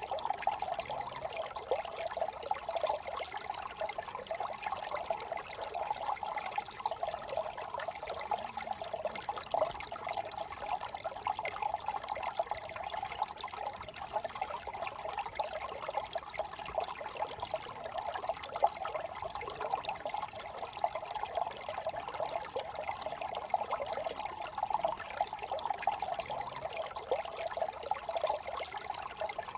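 Small desert brook trickling and burbling steadily over stones, a continuous patter of small splashes.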